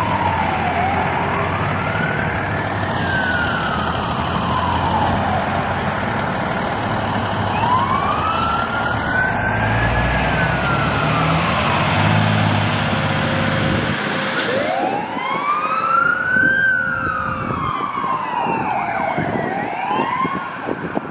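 Fire truck siren wailing, its pitch rising and falling slowly in long sweeps of about four to five seconds, over the low rumble of the truck's engine. The engine rumble fades about two-thirds of the way through, while the wail carries on and ends with a short, quicker rise.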